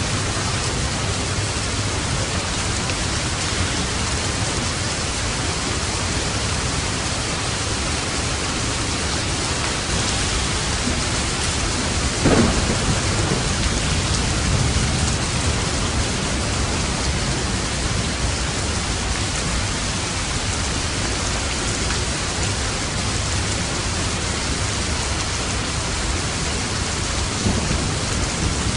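Steady rain with a single thunderclap about halfway through that rumbles away over a few seconds.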